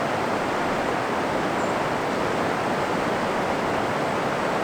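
Steady rush of whitewater from river rapids.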